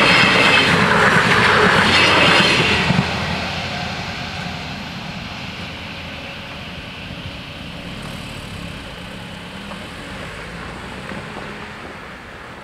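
Eurobahn Talent diesel multiple unit passing over a level crossing: the train is loud for about three seconds, with a few high ringing tones in the rush of wheels and engine, then fades steadily as it moves away.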